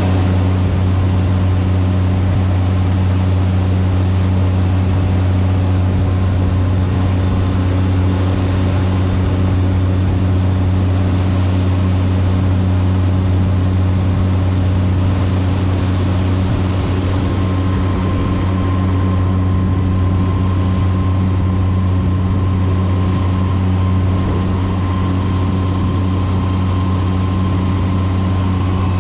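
John Deere 9560 walker combine running steadily while harvesting corn: a deep, even machine drone with a faint high whine that fades out about two-thirds of the way through.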